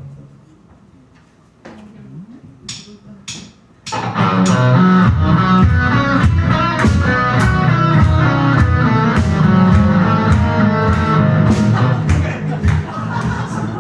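A few sharp clicks, then about four seconds in a live band comes in all together: electric guitar and bass guitar playing a rock song over a steady beat.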